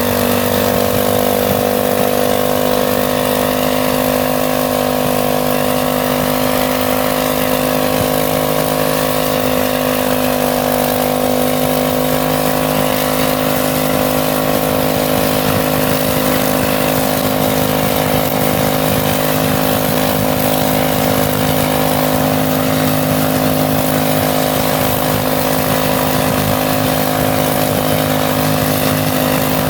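TBI 350 small-block Chevy V8 running on a test stand with its throttle zip-tied open, holding a steady pitch as it is run to destruction.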